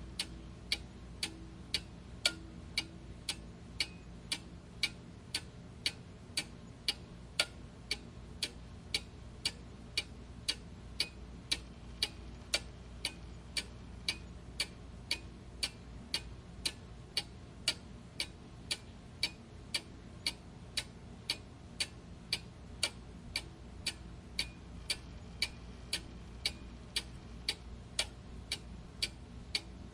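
Clock ticking steadily, with evenly spaced sharp ticks, over a faint low background hum.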